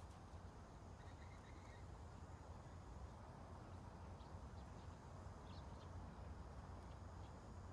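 Quiet ambient background: a steady low rumble with a few faint, short high chirps scattered through it.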